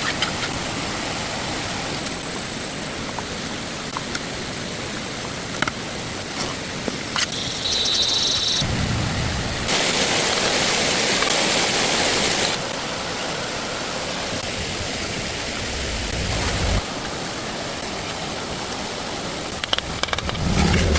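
Steady rushing water with scattered light knocks and clicks. About ten seconds in, a louder hiss rises for around three seconds.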